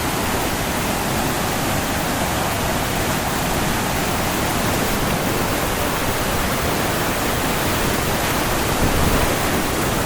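Loud, steady rushing of fast white water at a waterfall, close to the microphone.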